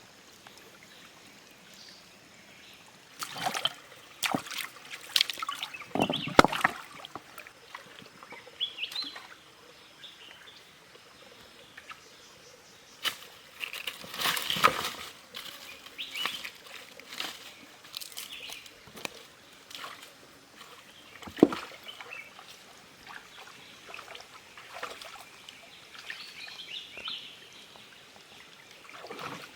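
Water splashing and sloshing in irregular bursts, with scattered sharp knocks, as in hands or feet working through shallow water and mud.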